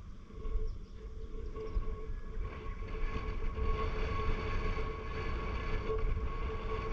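A steady engine-like hum, a held tone over a low rumble, growing a little louder about two seconds in.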